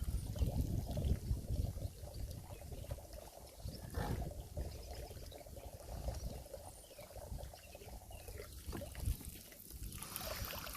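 Water pouring and trickling out of a flooded RC boat hull, heavier for the first couple of seconds, then a fainter irregular trickle.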